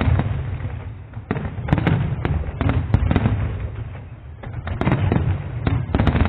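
Fireworks display: a dozen or so sharp bangs from shells bursting overhead, coming in irregular clusters over a continuous low rumble.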